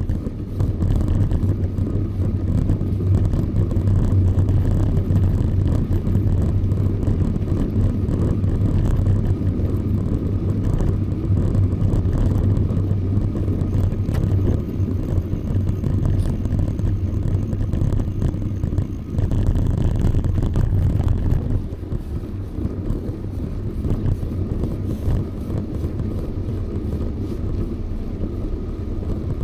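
Steady low rumble of wind and road noise on the microphone of a camera riding along on a bicycle, easing off somewhat about two-thirds of the way through.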